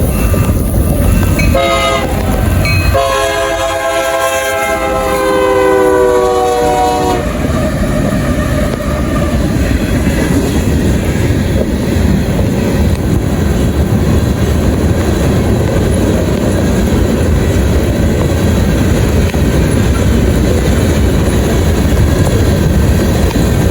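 Horn of a Union Pacific SD70-series diesel locomotive blowing in several blasts as the freight train passes, the last long blast dropping in pitch as the locomotive goes by and ending about seven seconds in. The steady rumble and clatter of the freight cars rolling past follows.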